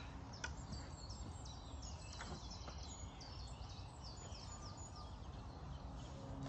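Birds singing in a garden: short, high notes falling in pitch, a couple each second, over a low steady rumble of outdoor background noise, with a faint knock or two.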